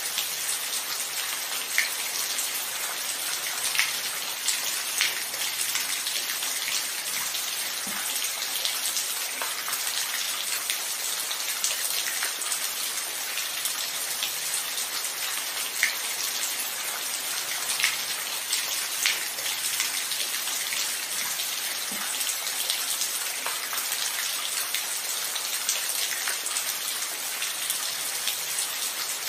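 Steady rain falling, an even hiss with individual drops ticking sharply every second or two, a few of them louder and closer.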